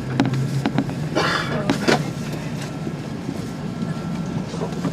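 Airbus A380 passenger cabin while parked at the gate: a steady low hum with several sharp clicks and knocks, and a brief murmur of voices about a second in.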